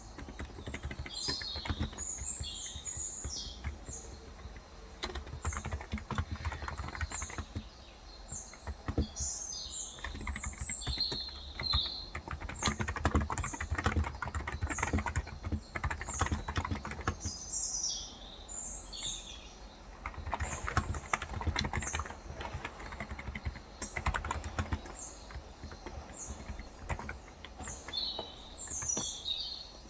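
Typing on a Cox Endeavor capacitive (non-contact) tenkeyless keyboard with 35 g switches: quick keystrokes in uneven runs with short pauses. Small birds chirp over it throughout.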